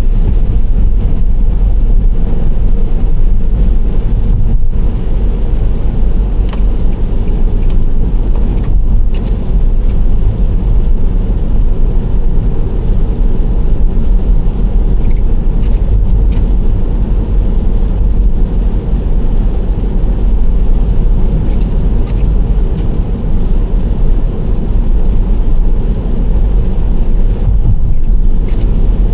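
Nissan Serena C25 minivan cruising: a steady low rumble of road and engine noise, with a few faint clicks scattered through it.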